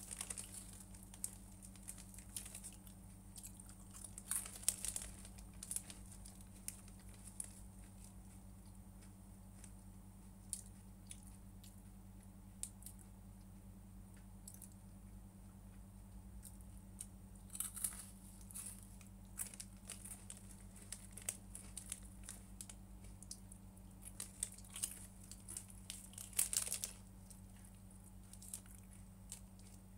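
Scattered crinkling, tearing and clicking of food packaging and utensils, with chewing, in bursts around 4 to 6 seconds in, again around 18 seconds and near the end. A steady low electrical hum runs underneath.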